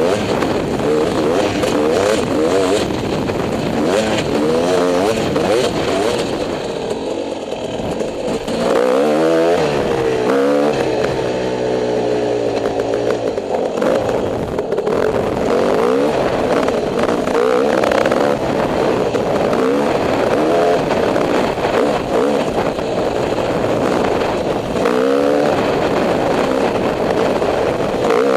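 Dirt bike engine running as the bike is ridden, its revs rising and falling again and again, with a spell of lower revs about ten seconds in.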